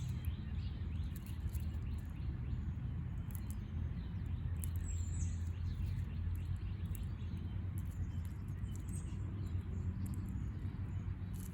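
A few short, high bird chirps over a steady low rumble.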